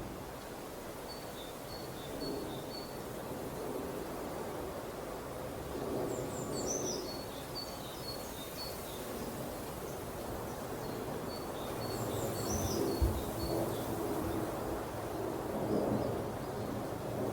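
Jungle ambience: a steady hiss of background noise with birds calling. The calls are short high chirps repeated in runs, with a quick falling chirp twice, about six seconds in and again about thirteen seconds in. A single low thump comes about thirteen seconds in.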